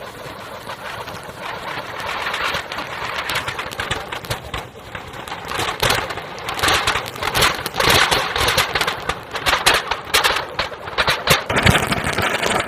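Table fan running with three pomegranates fixed to its blades: a whirr that builds over the first couple of seconds, then many sharp knocks from about three seconds in that come thicker toward the end.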